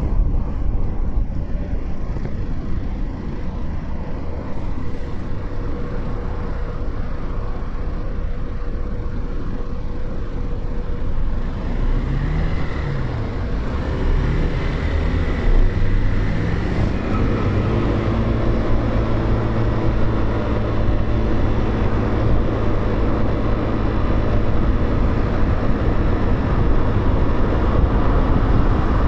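Motorcycle engine running under a constant low rumble of wind on the microphone. About twelve seconds in, the engine pitch rises and falls twice as the bike accelerates through the gears, then holds steady as it cruises.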